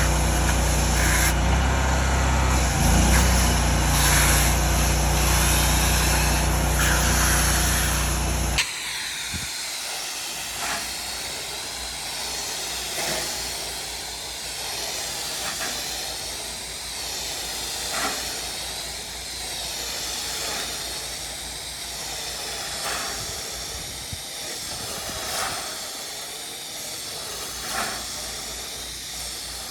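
Pressure-washing spray hissing steadily. For the first several seconds a motor hum runs loudly alongside it. After an abrupt change the spray is quieter, with a slow back-and-forth sweeping rhythm.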